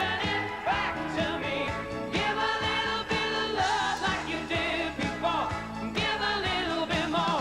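Live pop music from a band with a steady beat, carrying a melodic lead line that slides in pitch.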